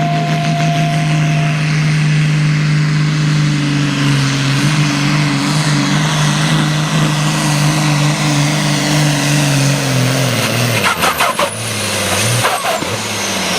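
Ursus tractor's diesel engine running at full load as it pulls the weight sled, its pitch creeping up slightly over several seconds. About ten seconds in, the engine sound falls away and a few sharp knocks follow.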